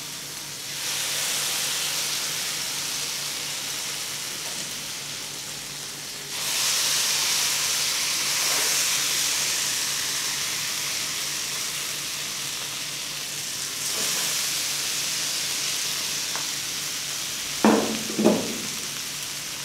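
Masala-coated goat brains sizzling in a little hot oil on a flat tawa. The sizzle jumps louder three times, about a second in, about six seconds in and about fourteen seconds in, as each piece is laid into the pan.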